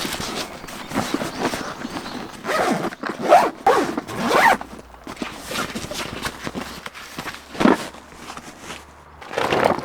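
A zipper being pulled in several short rasping strokes, with pauses between them.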